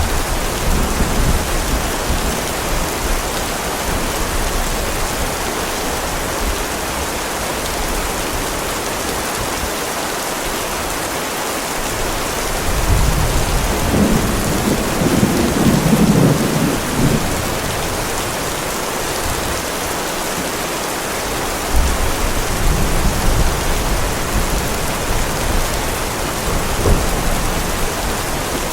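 Heavy rain falling steadily, with rolling thunder rumbling three times: briefly at the start, loudest in the middle, and again for the last several seconds.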